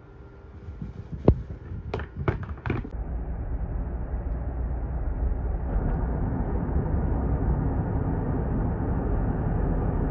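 A few sharp knocks, then the steady low rumble of a car's road and engine noise heard while driving.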